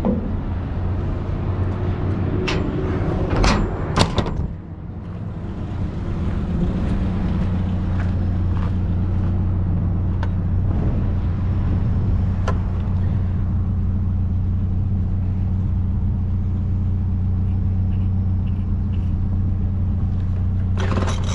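Two sharp knocks about three and a half and four seconds in as the pickup truck's door shuts, then the truck's engine running steadily as it drives.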